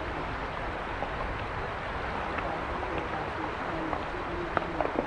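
Mountain river flowing steadily, with a few sharp clicks or splashes near the end.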